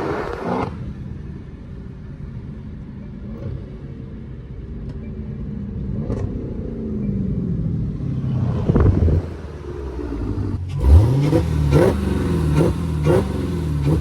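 Supercharged 6.2-litre HEMI V8 of a Dodge Charger Hellcat Redeye running with its mid mufflers deleted. The engine note holds fairly steady, rises past the middle, then revs up sharply near the end with a run of short pulses in the exhaust note.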